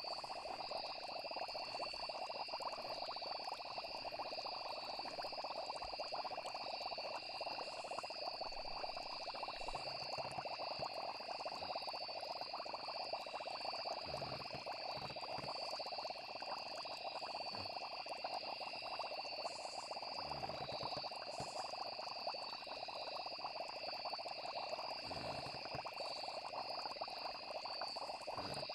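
Night nature ambience: a steady chorus of frogs with insects trilling high above it, and a few soft low thuds in the second half.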